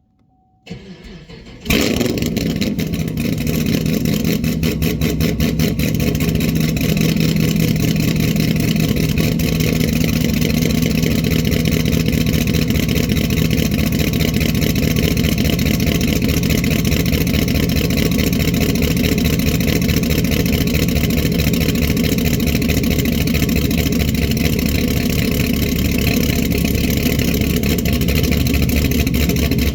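Supercharged 6.2-litre LSA V8 of a fifth-generation Camaro ZL1, fitted with a BTR Stage 3 torque cam and running on E85, cold-started: about a second of starter cranking, then it catches and settles into a loud, steady idle.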